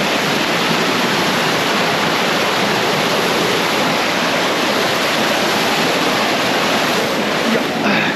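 Rushing water of a waterfall and rapids, a loud, steady roar.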